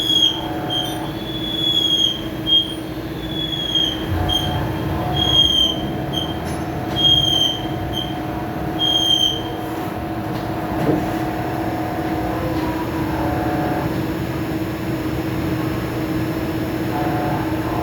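CNC lathe cutting, the tool squealing against the turning workpiece in a series of short high-pitched squeals about a second apart for the first half. Under the squeals is a steady machine hum that runs on after they stop.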